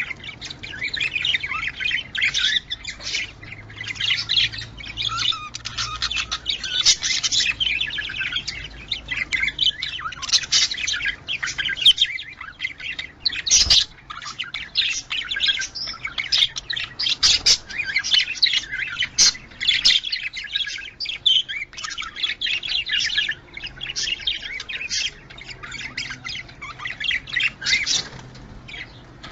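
Budgerigars chattering and warbling in rapid, continuous chirps and squawks, with one sharp click about fourteen seconds in.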